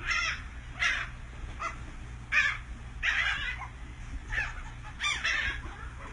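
Gulls calling: a string of short, harsh calls, about one a second, over a low steady hum.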